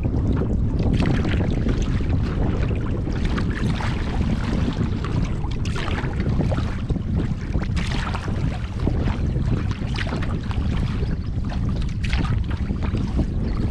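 Wind buffeting the microphone on a canoe trip: a dense, steady low rumble, with scattered short splashes of water.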